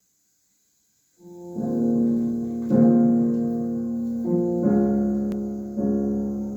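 Piano playing slow, held chords, starting about a second in, with a new chord struck every second or so.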